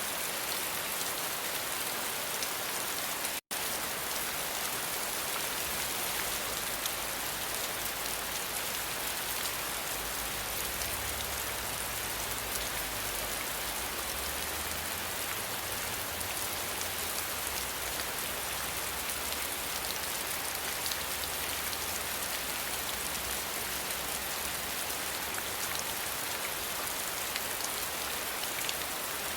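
Steady rain falling, an even hiss. The sound drops out completely for an instant about three and a half seconds in.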